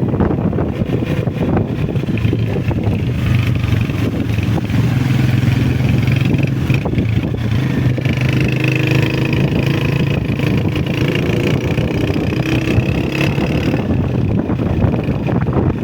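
Honda CG125 motorcycle's single-cylinder four-stroke engine running steadily while riding.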